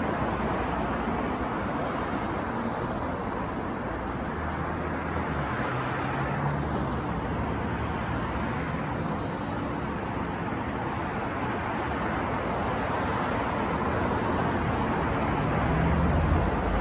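Steady city traffic noise: a continuous wash of passing cars, with the low hum of vehicle engines swelling twice and the traffic growing louder near the end.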